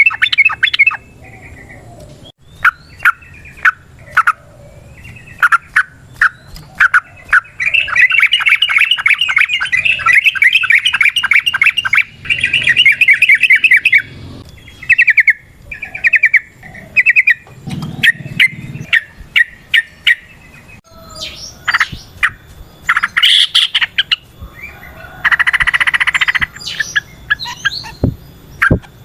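Yellow-vented bulbul (trucukan) singing: loud bursts of bubbly chirps broken by rapid chattering runs, the long 'ropel' run, one lasting about six seconds and a shorter one near the end.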